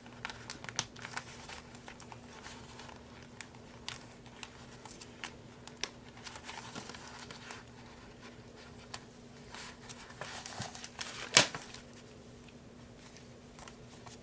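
Paper sheets rustling and being handled, with scattered light clicks and taps and one sharper, louder click about three-quarters of the way through.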